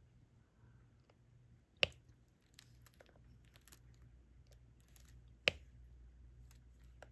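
Small clicks and taps of diamond-painting work, a drill pen picking up resin drills and pressing them onto the canvas, with two sharper clicks about two seconds in and about five and a half seconds in. A steady low hum runs underneath.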